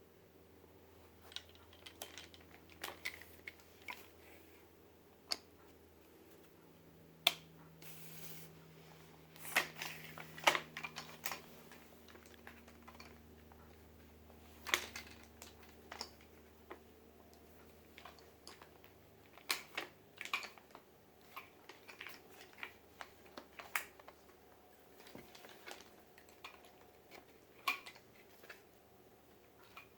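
Folding hand truck being handled: irregular sharp clicks and light knocks over a faint steady hum, the sharpest about 7, 10, 15, 20 and 28 seconds in.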